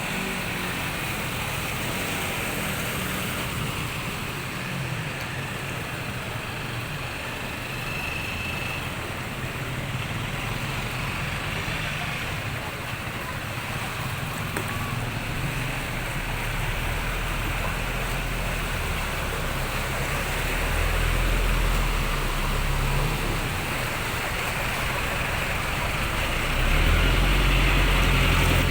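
A motor engine running under a steady rushing noise, its low hum growing louder over the last third.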